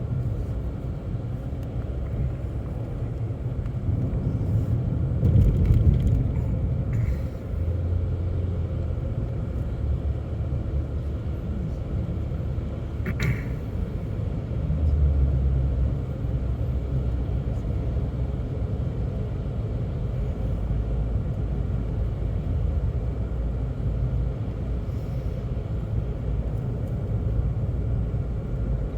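Car being driven on a snowy road, heard from inside the cabin: a steady low rumble of engine and tyres. It swells twice, and there is one short sharp click about halfway through.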